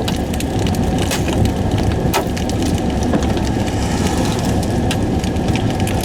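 Irregular sharp taps and knocks, several a second, against the low rumble of a car, heard from inside the vehicle.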